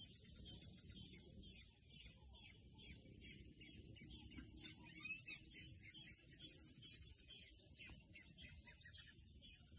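Faint chirping of small birds: many quick calls overlapping, busiest in the second half, over a low background rumble.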